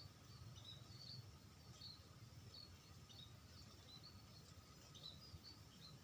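Faint high-pitched chirps of small birds, irregular, a few each second, over a low rumble of background noise.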